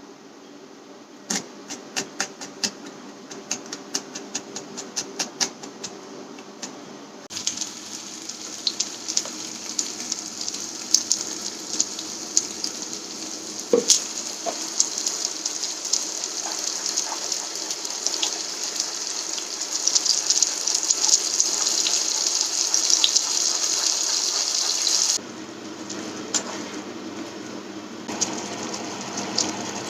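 A string of sharp clicks and ticks, then food sizzling in a hot pan: a steady high hiss full of small pops that cuts off suddenly after about eighteen seconds.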